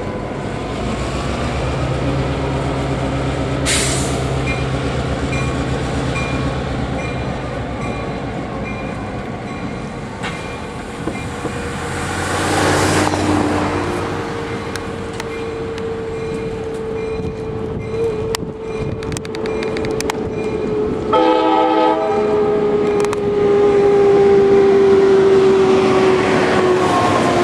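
Diesel locomotive running past with a low engine rumble, then its horn sounding in the second half: a short chord-like blast about two-thirds of the way in and a long blast near the end that drops slightly in pitch as it passes.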